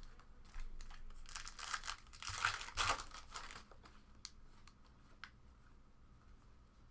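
Foil wrapper of a trading card pack crinkling and tearing open, loudest about two and a half seconds in, followed by a few light clicks.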